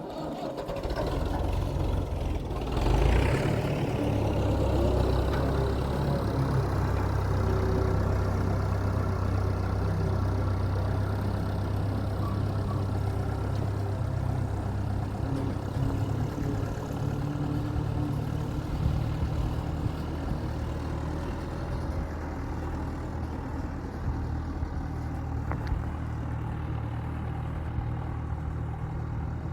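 Tractor engine running steadily, with a brief louder surge about three seconds in.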